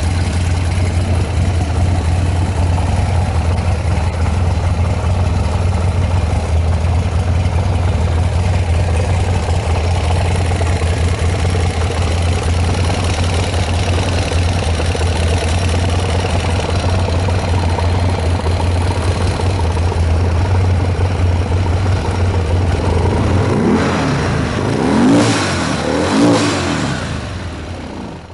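Buell X1 Lightning's 1203cc air-cooled V-twin idling steadily, then revved twice near the end before settling back down. It runs with no abnormal noises.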